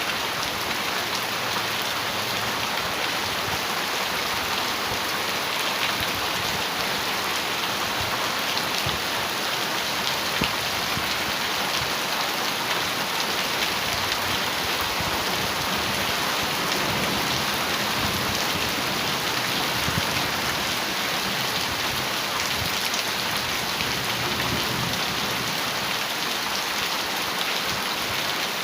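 Heavy rain drumming steadily on a metal roof: a dense, even hiss of countless drops striking the sheet metal.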